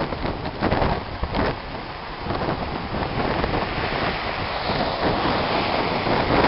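Hurricane Irene's wind and heavy rain rushing in a steady wash, swelling a little about two seconds in as a gust builds and holds.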